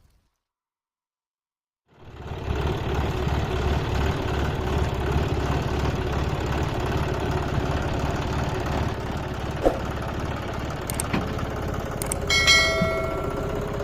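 About two seconds of silence, then a farm vehicle's diesel engine running steadily with an even low throb. A brief ringing, horn-like tone sounds near the end.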